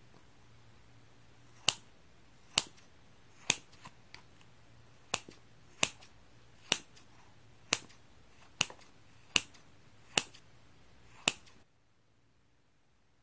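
Scissors snipping through high-elasticity sponge: about eleven crisp snips, roughly one a second, some followed by a smaller click.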